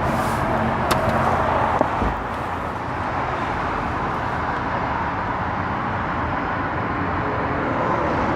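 2018 GMC Yukon Denali's 6.2-litre V8 idling steadily on remote start, with a couple of sharp clicks and a low thump about two seconds in.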